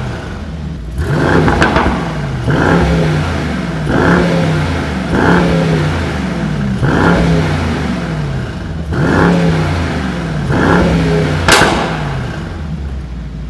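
Mercedes-AMG E63 S 4.0-litre twin-turbo V8 revved while standing: a series of short throttle blips, about one every second and a half, each falling back toward idle, heard at the quad exhaust tips. A sharp exhaust crack comes on one blip near the end.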